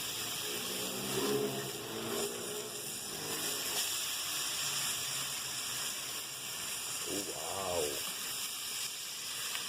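Beef burger patties sizzling in a stovetop grill pan, a steady hiss.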